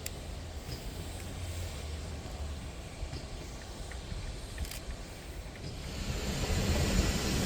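A steam train approaching: a low rumble that grows louder from about six seconds in, with a rising hiss.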